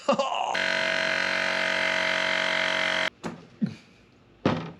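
Toy phaser firing its stun sound effect: a steady buzzing electronic tone that starts abruptly about half a second in and cuts off suddenly after about two and a half seconds.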